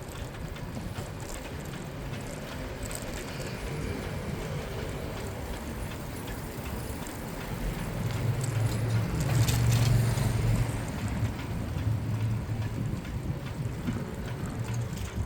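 City street noise heard while cycling: a steady mix of tyre and wind noise. A motor vehicle's low rumble grows louder a little past halfway through, peaks, then eases off as it passes.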